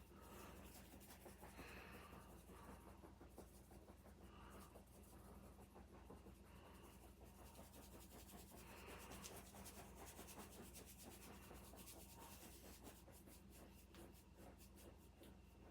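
Near silence with faint scratching and rubbing, and small scattered clicks.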